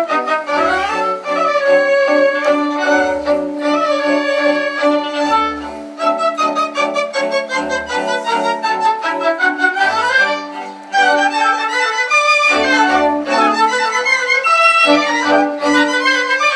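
Live classical music from a symphonic ensemble: a violin carries the melody over strings, with a low bass note repeating about every two seconds.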